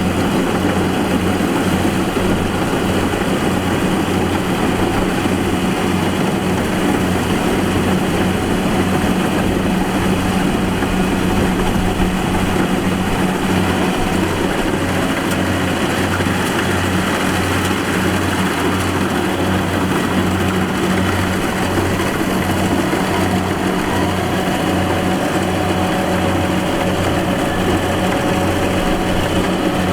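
A farm machine's engine running steadily at a constant speed, with a low, evenly pulsing hum.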